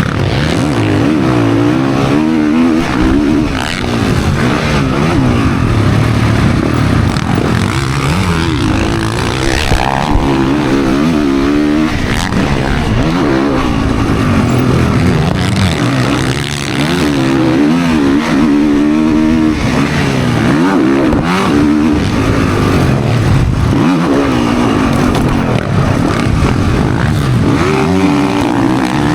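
Motocross dirt bike engine racing on track, revs rising and falling repeatedly as the rider twists the throttle and shifts. Wind noise is mixed in.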